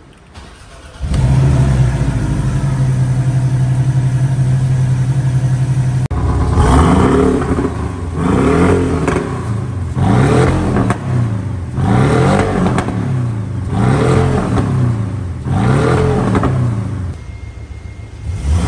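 Porsche 718 Boxster's turbocharged flat-four engine starting about a second in and idling steadily, then revved in six short blips before settling back to idle near the end, heard through an exhaust fitted with a DPW Evo valve diffuser.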